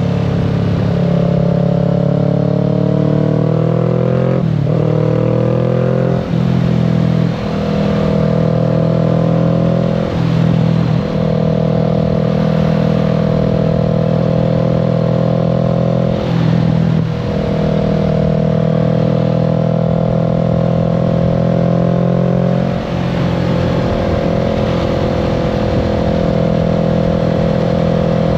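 Kawasaki Z650's parallel-twin engine running under way. Its note briefly drops and picks up again several times, around 5, 6, 7, 10, 11, 16 and 23 seconds in.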